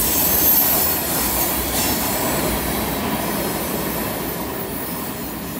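Freight train tank cars rolling past on a curve: steady noise of steel wheels on rail, with a high, thin wheel squeal in about the first second, fading away as the end of the train moves off.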